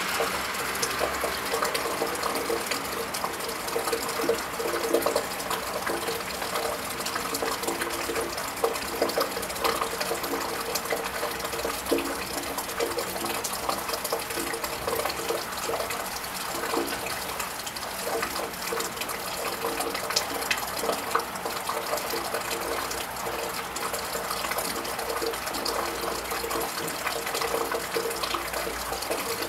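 Steady rain falling on a tiled roof, with many small drops ticking and splashing.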